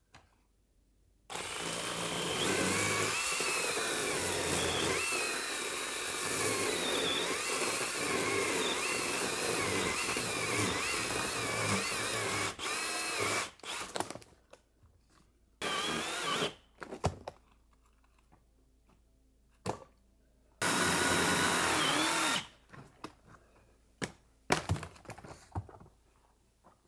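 Battery-powered Milwaukee Hatchet pruning saw, fitted with a 14-inch bar and chain, cutting wood: one long cut of about ten seconds with the motor's pitch wavering under load, then several short bursts of cutting.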